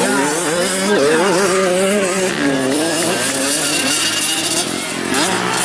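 Several 150 cc motocross bikes racing, their engines revving up and down through the gears with overlapping rising and falling pitches.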